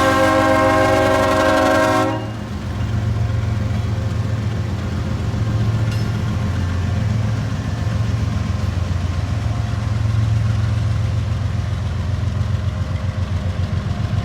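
Diesel locomotive air horn sounding a chord, which cuts off abruptly about two seconds in. The locomotive's diesel engine keeps running with a steady low rumble after it.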